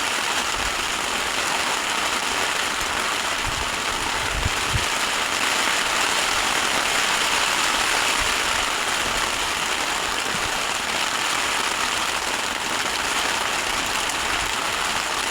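Heavy downpour: a steady, dense hiss of rain, with a few low thumps about four to five seconds in.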